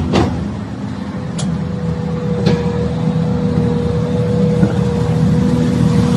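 A hydraulic breaker's last blow right at the start, then an excavator's diesel engine running steadily with a steady high whine coming in about a second later. A couple of sharp knocks near 1.5 and 2.5 seconds.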